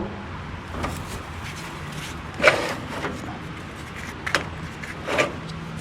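A few short, sharp knocks and clicks, a second or so apart, the loudest about two and a half seconds in, from handling and disconnecting a tractor's battery cable.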